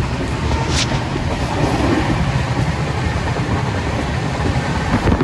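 Rajdhani Express train running along the track: a loud, steady rumble of wheels and coach on the rails, with a brief hiss about a second in.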